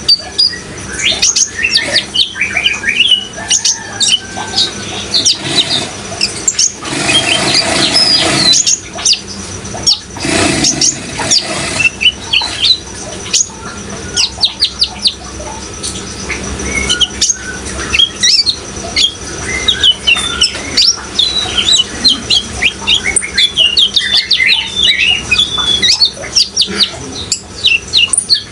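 Kolibri ninja sunbird singing: rapid, high, thin chirps and trills, one after another without pause, over a steady rush of running water that swells briefly twice near the middle.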